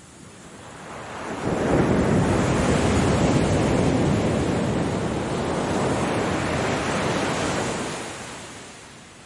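One ocean wave breaking and washing up. The surf noise builds from about a second in, holds for several seconds, then fades away near the end.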